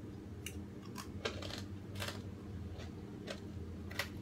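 Mouth sounds of someone eating with her fingers: a scattering of short wet clicks and smacks while chewing, over a low steady hum.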